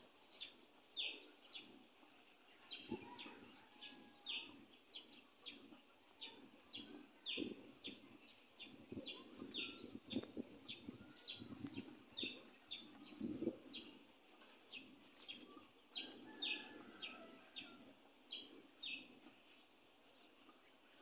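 A small bird chirping over and over, faint short chirps at about two a second, with soft low scuffs underneath.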